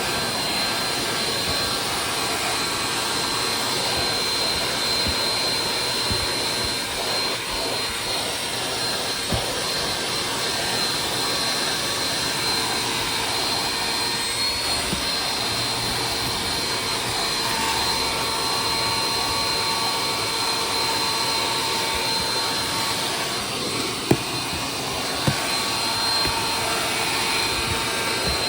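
Vacuum cleaner running steadily, with a thin high whine. Two short knocks come near the end.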